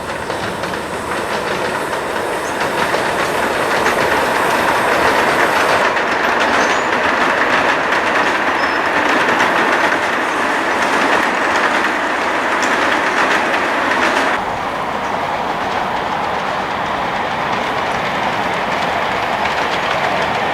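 Model train running on the layout's track, a steady running noise that drops a little about three-quarters of the way through.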